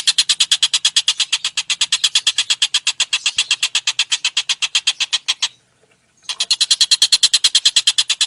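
A songbird's harsh, rapid chattering call, a fast even train of about eight or nine rasping notes a second. It breaks off briefly a little past halfway, then starts again.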